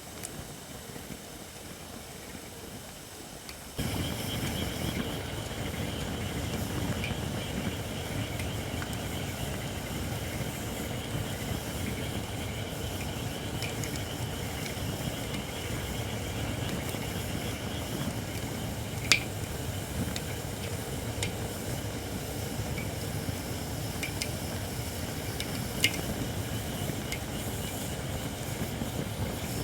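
Campfire of Japanese white oak (shirakashi) logs burning: a steady low rumble with a high hiss from firewood that is not yet dry enough, and scattered crackles, two sharp pops standing out in the second half. The sound grows abruptly louder about four seconds in.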